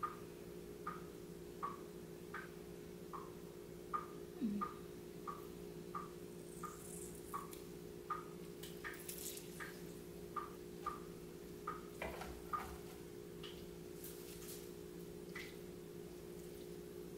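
Soft, evenly spaced ticks, about three every two seconds, over a low steady hum. About two thirds of the way through the ticks stop and a spatula scrapes and stirs through rice and beans in a frying pan.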